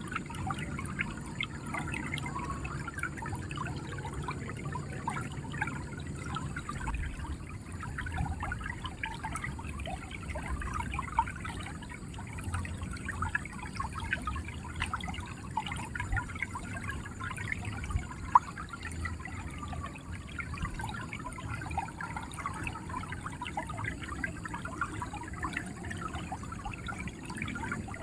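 River water flowing and gurgling steadily over stones, a dense run of small bubbling splashes, with one brief sharper splash or pop about eighteen seconds in.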